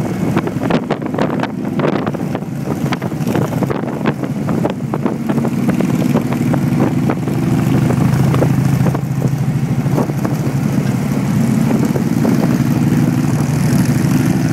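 Motorcycle engine running steadily while under way, with wind buffeting the microphone. The wind is choppy for the first few seconds, then the engine note settles and grows a little louder.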